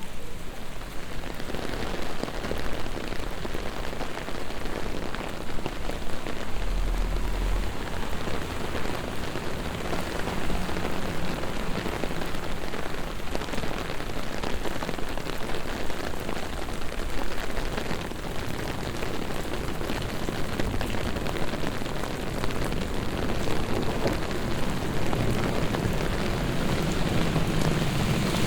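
Heavy rain pouring steadily onto a city street, a dense hiss of raindrops spattering on pavement and other hard surfaces, with a brief low rumble about seven seconds in.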